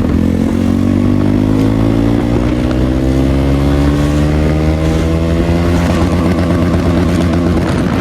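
KTM 390 Duke's single-cylinder engine running loud with no exhaust fitted, its pitch rising steadily as the bike accelerates. The rising pitch breaks off about six seconds in.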